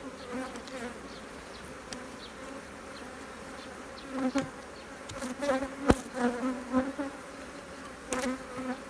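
Honeybees buzzing around an opened hive. The buzz swells and fades as bees fly close from about four seconds in, with one sharp click near the middle.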